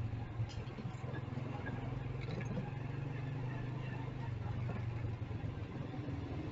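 Motorcycle engine running steadily while riding, its pitch dipping slightly a little past the middle.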